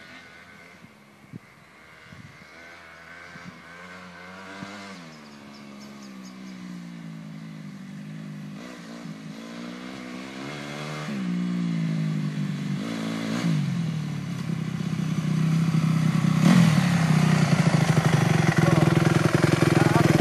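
Honda CRF250 dirt bike's single-cylinder four-stroke engine revving up and dropping back several times as it shifts through the gears, growing louder as the bike approaches, then running loud and steady for the last few seconds.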